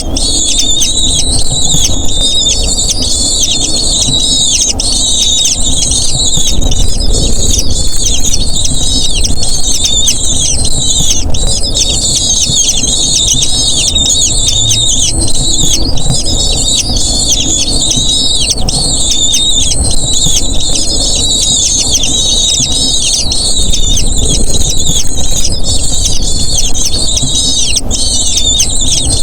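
Eagle chicks calling nonstop with thin, high-pitched squealing cheeps, many overlapping calls in quick succession, typical of nestlings begging for food, over a steady low rumble.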